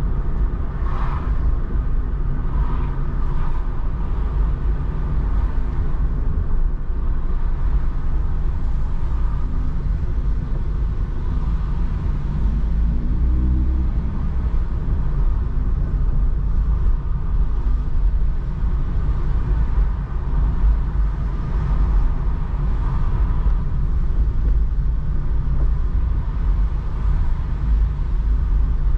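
Steady low road and engine rumble inside a moving car's cabin, with the engine note rising briefly about halfway through as the car pulls away or accelerates.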